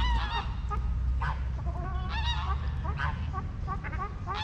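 A flock of waterfowl honking and calling at a lakeside, many short calls following one another and overlapping, over a steady low rumble.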